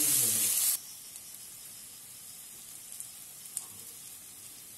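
Onions frying in oil in a non-stick wok, a loud steady sizzle that cuts off suddenly about a second in, leaving a low background with a couple of faint clicks.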